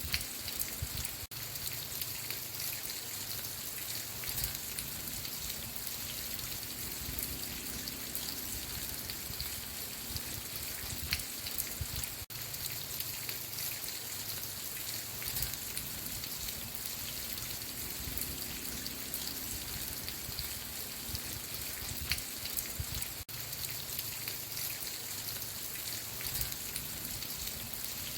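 Steady rain falling, with many close raindrops pattering on a surface. The sound drops out for an instant about every eleven seconds, as a looped recording does.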